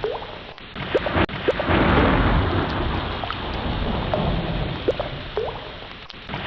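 Ocean wash surging in and drawing back, peaking about two seconds in and fading near the end. Over it come short rising squeaks and a few sharp clicks.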